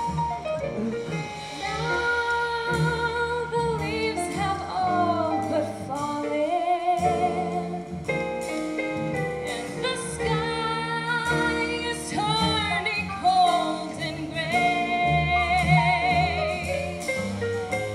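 A woman singing long held notes with a clear vibrato over instrumental accompaniment, with no words audible.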